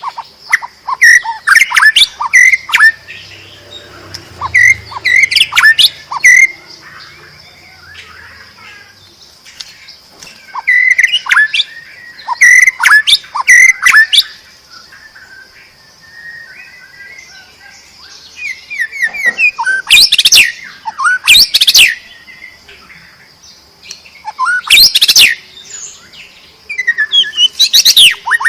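White-rumped shama (murai batu) singing loud phrases of varied whistles and quick sweeping notes, in bursts a second or several long with pauses of a few seconds between them. A faint steady high-pitched hum runs underneath.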